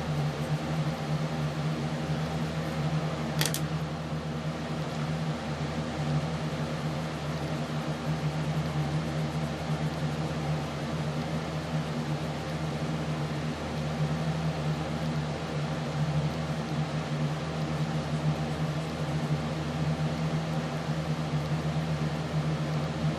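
Steady machine hum with a low droning tone, like a fan or motor, with a single sharp click about three and a half seconds in.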